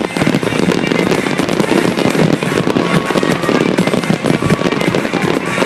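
Fireworks display going off in rapid, dense crackles and bangs, with music playing along.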